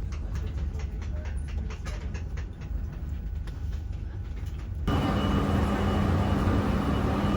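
Passenger train running: a steady low rumble with faint clicks from the rails. About five seconds in it changes abruptly to a louder rushing noise with a steady whine.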